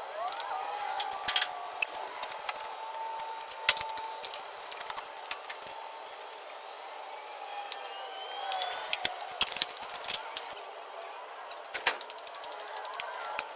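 Irregular clicks, knocks and light clatter of objects being handled and set down, with faint scraping.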